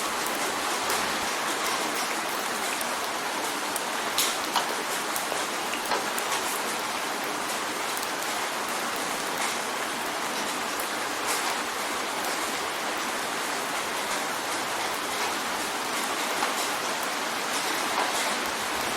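Steady rain drumming on a window pane: a constant hiss of rain with scattered sharper drop impacts, a few louder ones about four to five seconds in.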